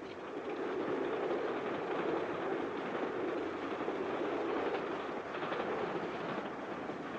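Mail train running at speed: a steady rumbling noise, a little louder from about a second in.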